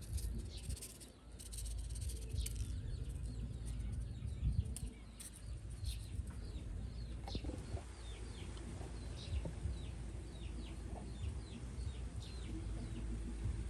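Birds chirping in the background: many short, high, falling notes repeated over and over, thickest from about the middle on, over a steady low rumble.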